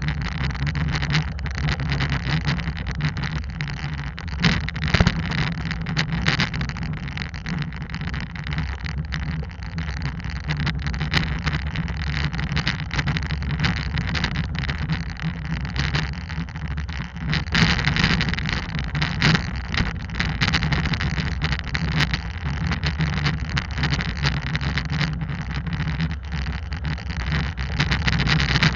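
Hyundai Santa Cruz pickup driving on a rough trail, heard from a camera mounted outside the body: a steady engine and tyre drone with wind on the microphone, and frequent small clicks and knocks throughout.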